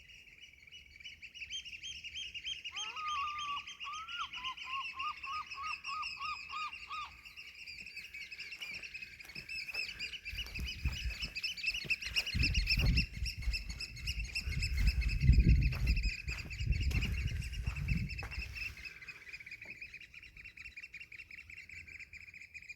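Birds in a tree chirping in a dense, continuous high chatter, with a separate run of about ten lower repeated notes a few seconds in. Low rumbling thumps come in about halfway through and are the loudest part.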